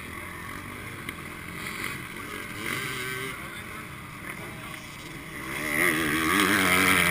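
Dirt bike engine running over wind noise. It grows louder about five seconds in, its pitch rising and falling as the throttle is worked.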